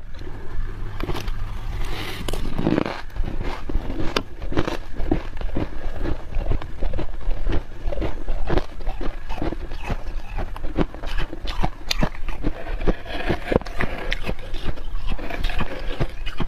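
Thick freezer frost being dug out with a spoon and chewed: a dense, irregular run of squeaky crunches and scrapes.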